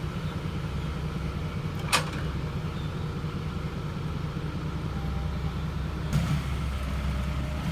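Dump truck engine running steadily at low revs, with one sharp click about two seconds in.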